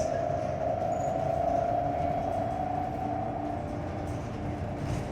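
2018 New Flyer XT40 trolleybus's Vossloh Kiepe electric traction motor whining under power, a steady tone that rises slightly in pitch as the bus speeds up and fades away after about four seconds, over low road rumble.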